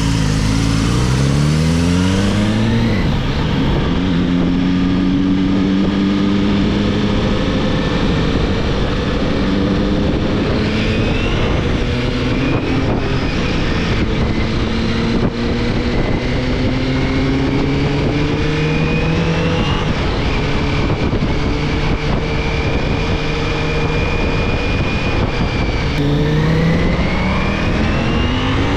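Ducati Multistrada's engine pulling away, its pitch climbing steeply with an upshift about three seconds in, then running at a near-steady pitch with slow rises and a fresh climb near the end. Wind rushes over the microphone throughout.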